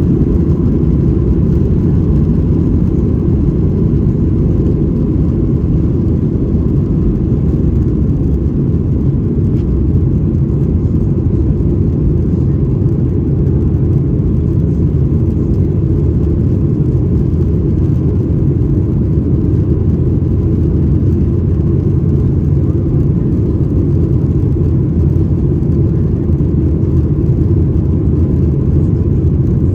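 Steady cabin noise inside a Boeing 737-800 in flight: the low rumble of airflow and its CFM56 turbofan engines, unchanging, with a faint steady hum on top.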